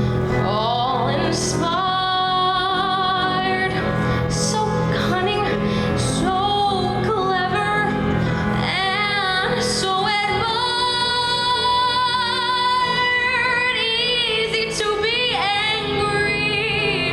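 A solo singer performing a musical-theatre song with instrumental accompaniment, holding long notes with vibrato.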